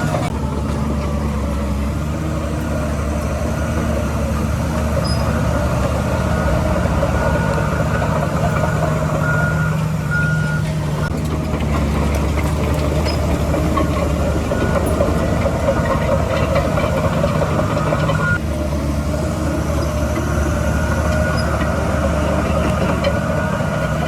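Heavy diesel earthmoving machinery running, its engine note shifting with the load a few times. A reversing alarm beeps in spells of roughly one beep a second, most clearly about a third of the way in.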